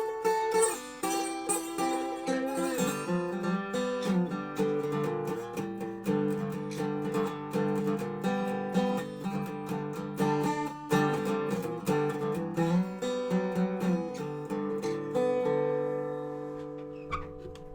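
Dobro resonator guitar played blues-style: a run of picked notes, some sliding from one pitch to the next, ending on a held note that rings out and fades near the end.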